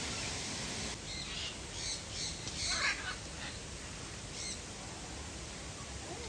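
Birds calling: a cluster of short, high calls over a couple of seconds, then one more near the middle. Before them a steady hiss cuts off suddenly about a second in.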